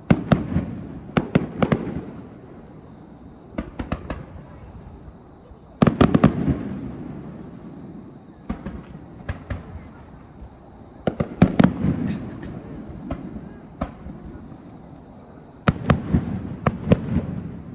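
Aerial fireworks bursting in volleys of sharp bangs and crackles, each volley trailing off in a fading echo. Volleys come at the start, about six seconds in, around eleven seconds, and near the end, with smaller scattered bangs between.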